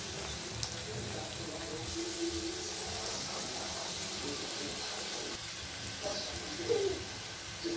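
Steady sizzle of diced potatoes frying in oil in a pan.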